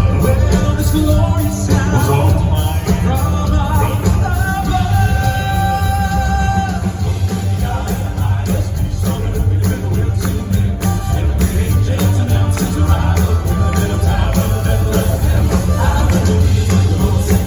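A male Southern gospel vocal quartet sings in close harmony over a loud live band with a heavy bass, holding a few long notes about four to seven seconds in.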